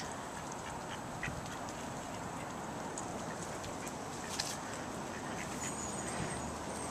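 Ducks quacking faintly now and then over a steady background hiss.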